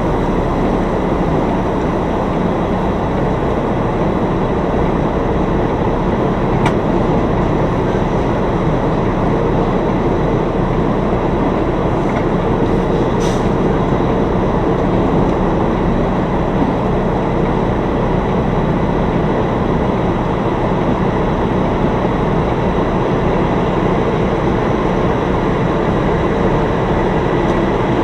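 Semi truck's diesel engine and drivetrain running with a steady, unbroken drone, with a faint click about seven seconds in and another about thirteen seconds in.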